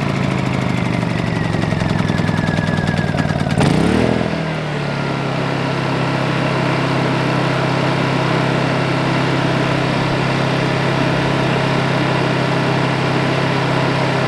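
Portable generator's small engine just after start-up. Its speed surges up and drops back about four seconds in, then it settles into a steady run. It is kept running while the low-oil sensor, which shuts it off if the oil level is wrong, has a moment to check.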